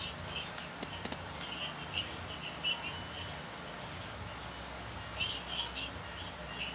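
Small bird chirping in short, high chirps that come in clusters, pausing in the middle, over a steady low hum.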